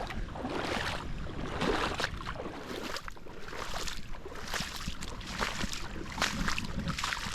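Rubber boots wading through shallow floodwater, sloshing and splashing with each step at an irregular walking pace, over low wind rumble on the microphone.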